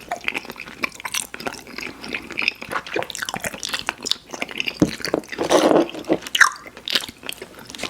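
Close-miked chewing of soft, chewy fruit candy: wet smacking and sticky mouth clicks in an irregular stream, thickening into a louder patch of squishy chewing near the end.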